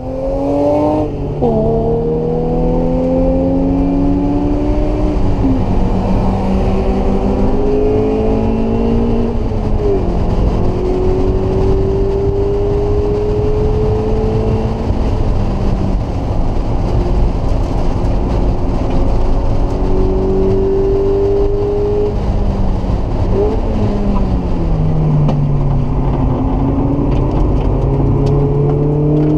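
Mazda MX-5's four-cylinder engine heard from inside the cabin while driven hard on track. The revs climb and fall back again and again with the gear changes and lifts, then hold a steady lower note for a while near the end before rising once more.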